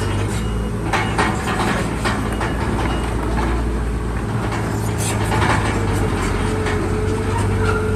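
Bulldozer's diesel engine running steadily under load, with a steady whine and repeated metallic clanks from its steel tracks.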